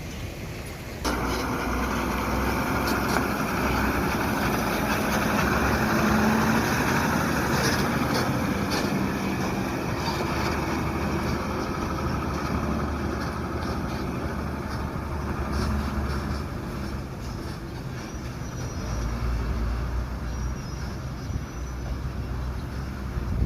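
Diesel dump truck engine running hard as the truck labours over a rough haul road, a steady heavy drone with rattling from the body. It comes in abruptly about a second in.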